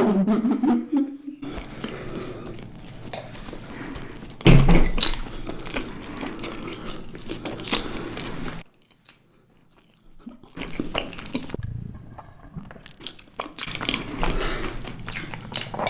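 Close-up chewing and crunching of food, with many short crackly bites; the sound drops out completely for about two seconds in the middle.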